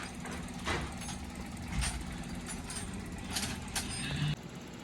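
Toyota Corolla GLI engine idling steadily, with a few short, sharp noises over it.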